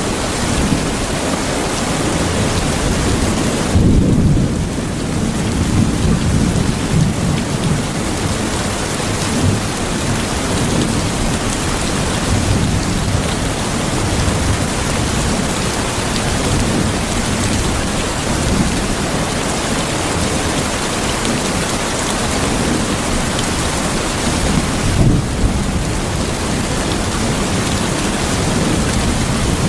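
Steady heavy rain with low rolls of thunder, the rumbling swelling about four seconds in and again near the end.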